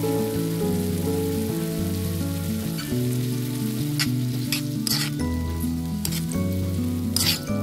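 Cauliflower and vegetables sizzling in hot oil in a pan while a spatula stirs them, scraping the pan in several quick strokes from about four seconds in. Instrumental background music plays throughout.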